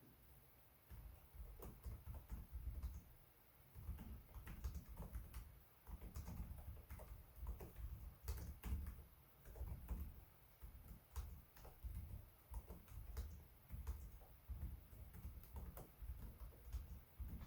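Typing on a Lenovo Legion 5 Pro laptop keyboard: faint, quick runs of key clicks with short pauses between them.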